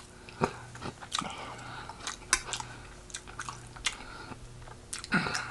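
A person chewing food close to the microphone: scattered wet mouth clicks and smacks over a low steady hum.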